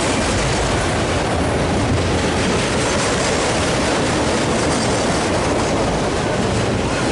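Freight train's autorack cars rolling past close by: a steady, loud rumble and rattle of steel wheels on the rails.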